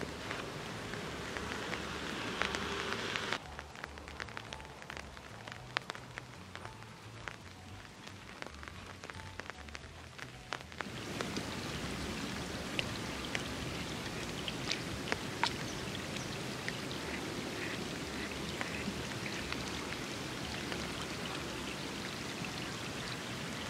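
Steady rain falling, with scattered individual drops ticking sharply on nearby surfaces. The sound drops in level suddenly about three seconds in and comes back fuller about eleven seconds in.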